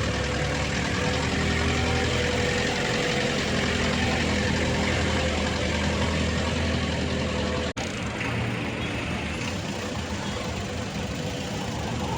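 Truck engine idling steadily. The sound drops out for an instant about two-thirds of the way through, then carries on with a slightly thinner low hum.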